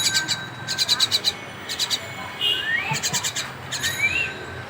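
Young common myna calling: about four short bursts of fast rattling chatter, with three short upslurred whistles in between.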